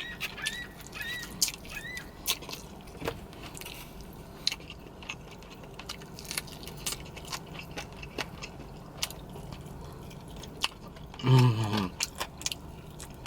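Close-up eating sounds of someone chewing tandoori chicken: scattered wet mouth clicks and smacks. A short repeated high chirp runs through the first second and a half, and a brief voiced hum comes about eleven seconds in.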